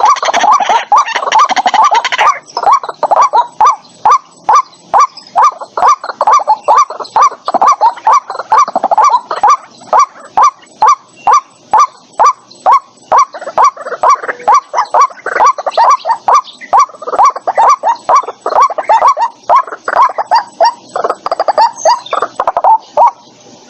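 White-breasted waterhen calling as a lure recording. A fast jumble of calls in the first couple of seconds gives way to a steady series of single notes, about two a second, and a second fast run of calls comes near the end.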